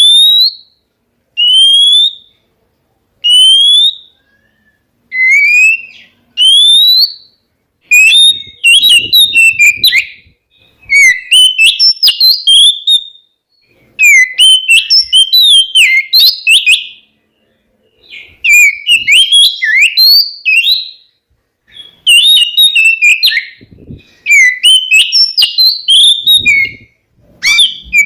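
Oriental magpie-robin (kacer) singing: first a series of clear rising whistles, one about every second and a half. From about eight seconds in come fast, varied song phrases in bouts broken by short pauses.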